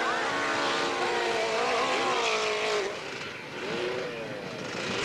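Dirt bike engine revving hard under throttle on a steep dirt climb, its pitch wavering up and down, then dropping off about three seconds in, with one short blip of revs after.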